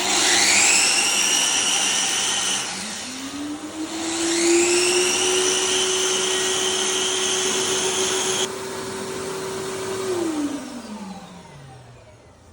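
A CVMA40 dust extractor runs in tool-activated auto-start mode together with a power tool plugged into its outlet. A high motor whine spins up at once. A lower motor hum climbs about three seconds in and holds steady. The high whine cuts off about two-thirds of the way through, and the lower hum winds down near the end as the machines shut off.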